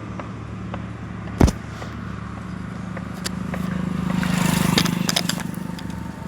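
Motorcycle engine running steadily, with one sharp knock about a second and a half in. A louder swell of vehicle noise rises and fades around four to five seconds in.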